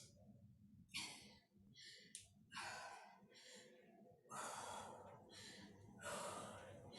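A woman breathing hard from exercise: a series of faint, short, hissy breaths, about one a second, as she works through weighted lunges.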